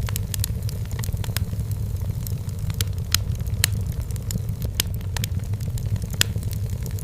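Wood fire in a fireplace crackling: irregular sharp pops and snaps over a steady low rumble, with a few louder pops scattered through.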